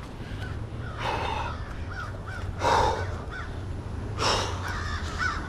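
Crows cawing: three harsh caws about a second and a half apart.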